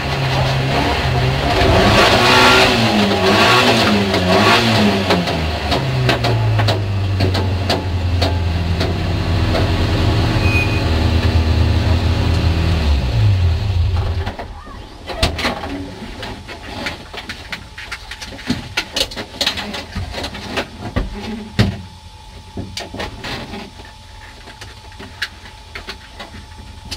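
Rear-mounted 1.3-litre four-cylinder engine of a Škoda 136 Rapid rally car, heard from inside the cabin: revving up and down, then held at high revs, then winding down and cutting off about halfway through as the car stops, on the stage it retired from with a broken half-shaft. After that, scattered clicks and knocks inside the stationary car.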